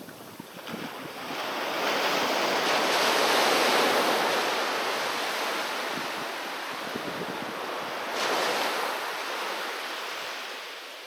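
Sea waves breaking on a beach. One wave builds and washes in loudly over the first few seconds and slowly ebbs, then a smaller wave breaks about eight seconds in and fades away.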